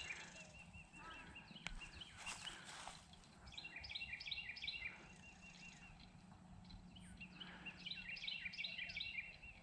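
A songbird singing: three runs of quick, repeated high chirping notes a few seconds apart, over faint outdoor background noise.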